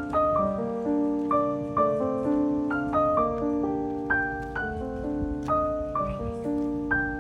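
Background piano music: a gentle melody of single notes over held chords, a new note about twice a second.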